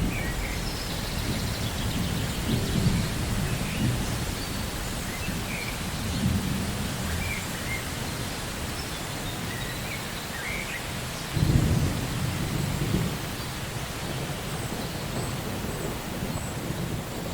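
Steady heavy rain with low rolls of thunder; the loudest rumble breaks in suddenly about eleven and a half seconds in.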